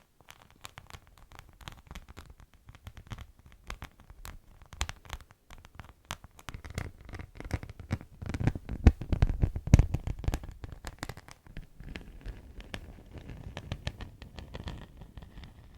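Beeswax wraps crinkling and crackling as they are handled close to the microphone: a dense run of small sharp crackles, with heavier thuds of handling around the middle.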